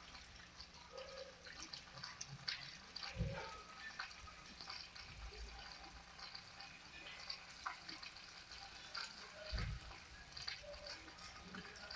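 Faint water trickling and dripping, with short scattered ticks and chirps over it and two low thumps, about three seconds in and near the ten-second mark.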